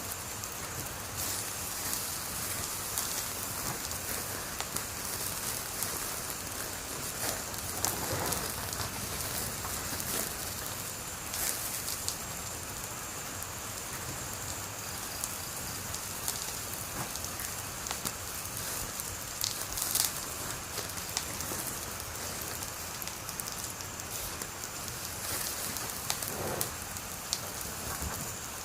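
Wood fire burning with a steady hiss and frequent crackles and sharp pops, the loudest pop about twenty seconds in.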